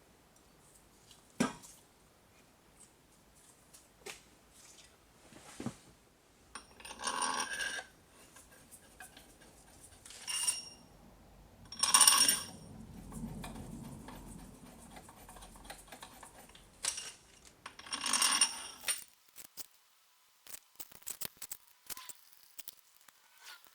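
Metal tools or engine parts being handled: scattered clicks and knocks, with four louder ringing metallic clanks.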